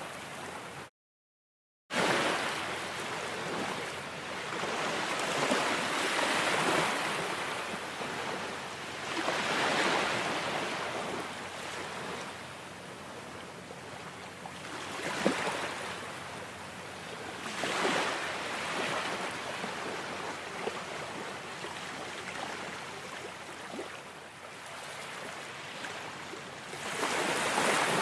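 Ocean waves breaking and washing in, the surf swelling and ebbing every few seconds. The sound cuts out completely for about a second near the start.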